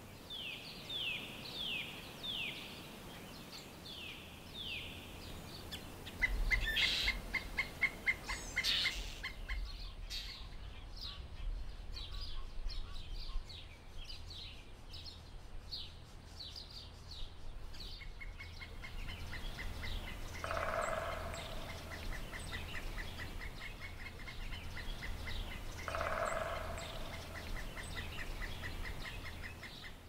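Birds calling: a run of quick falling whistled notes, then long fast series of repeated short notes, with two harsher, lower calls in the second half.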